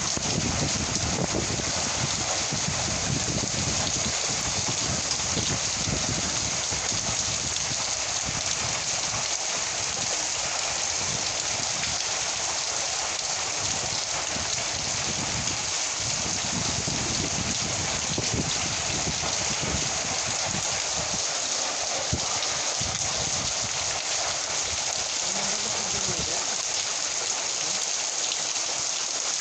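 Heavy, steady rain of a kalbaishakhi (nor'wester) storm: a dense, even hiss of rain on surfaces. Underneath it runs an uneven low rumble that dies down in the last third.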